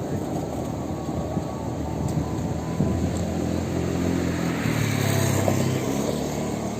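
Steady road-vehicle noise, with a deeper engine-like tone building about three seconds in, strongest near five seconds, then fading.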